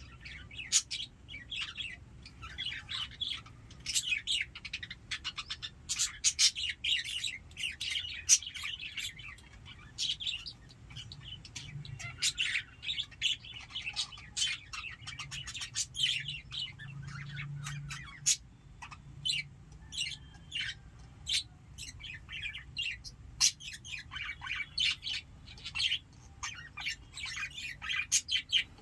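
Pet lovebirds chattering: a dense, continuous run of short, sharp, high-pitched chirps.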